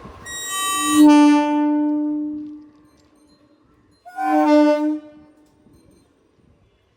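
Electric local train's horn sounding two blasts, a long one of about two seconds and then a short one about a second and a half later.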